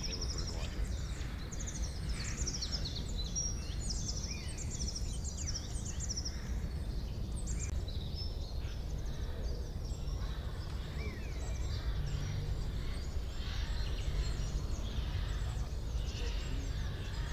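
Forest birdsong: several songbirds chirping and trilling, thickest in the first half and thinning out later, over a steady low rumble of ambient noise.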